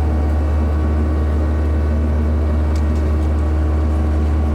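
Kubota KX121-3 mini excavator's diesel engine running steadily under hydraulic load while the arm lifts a very heavy load.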